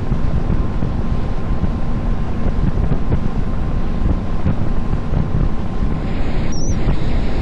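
Small tour boat under way on open water: wind buffeting the microphone over the steady drone of the boat's motor.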